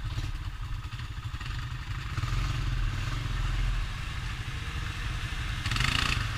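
Honda Rancher ATV's single-cylinder engine running under way, with some clatter and a short louder rush of hiss near the end.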